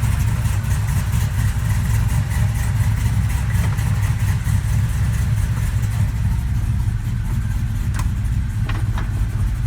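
1968 Chevrolet C10 pickup's engine idling steadily, heard from inside the cab, with a few light clicks near the end.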